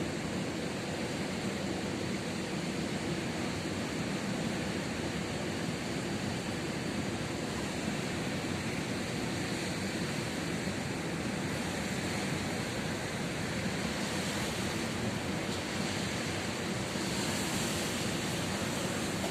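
Ocean surf breaking on a beach: a steady, continuous wash of noise that grows slightly brighter near the end.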